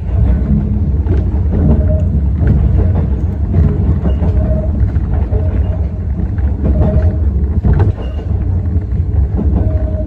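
Yokkaichi Asunarou Railway 260 series narrow-gauge electric railcar running on the line: a steady low rumble with scattered clicks and several brief whining tones.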